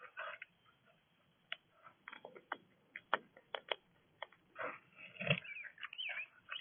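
Irregular small clicks and taps from animals at a bird feeder, with a few short chirps about five to six seconds in.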